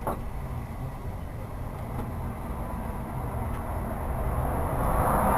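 Lorry driving on the road: steady low engine and road rumble, with a rushing noise building near the end.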